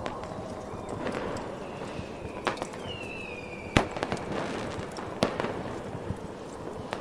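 Fireworks going off: three sharp bangs a little over a second apart, a short falling whistle between the first two, and smaller crackles throughout, over a steady rushing background.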